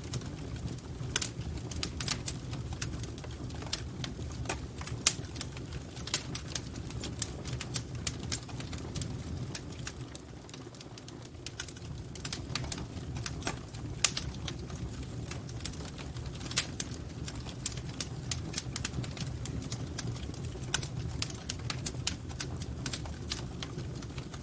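Fireplace fire crackling: frequent irregular sharp crackles and pops over a low steady rumble of the flames, with two louder pops about five and fourteen seconds in.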